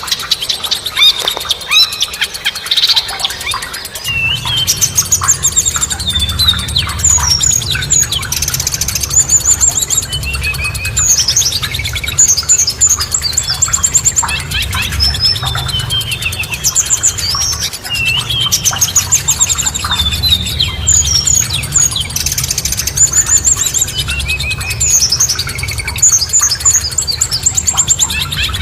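Songbirds chirping and singing in fast, overlapping high chirps and trills. A low steady rumble sits underneath from about four seconds in.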